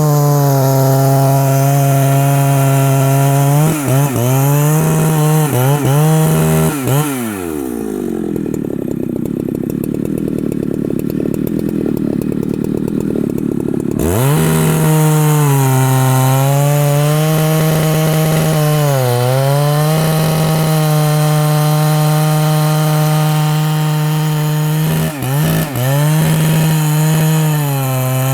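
Large two-stroke Husqvarna chainsaw cutting through rain tree wood at full throttle, its engine note dipping briefly under load now and then. About seven seconds in it drops to idle, and it revs back up to full speed about halfway through.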